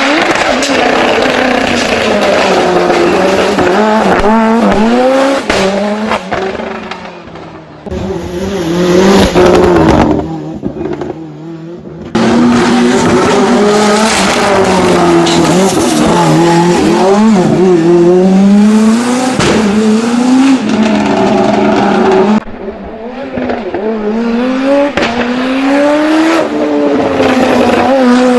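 Ford Escort Mk2 hillclimb race car at full throttle, its engine pitch climbing hard and then dropping again and again as it shifts up and lifts between corners. The sound breaks off abruptly several times and picks up on another stretch of the run.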